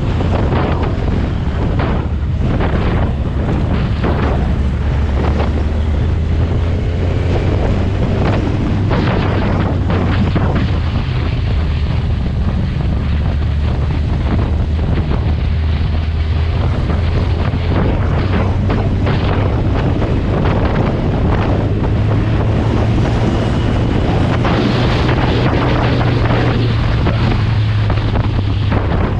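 Wind buffeting the microphone of a camera riding on a moving superbike, over the steady low drone of the bike's engine.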